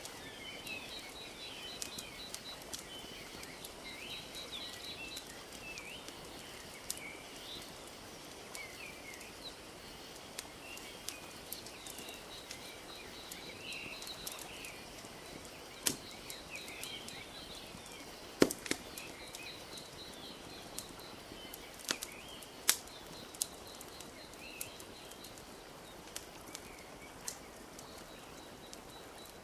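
Wood fire crackling, with irregular sharp pops, the loudest a little past halfway, over a steady wash of gently lapping lake water. Small birds chirp and trill throughout.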